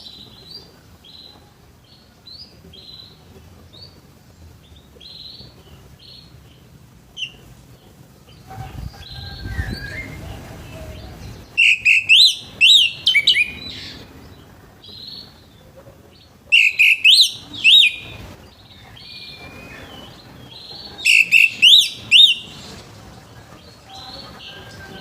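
Orange-headed thrush singing: three loud bursts of rapid, sweeping up-and-down whistled phrases, with short soft chirps between them.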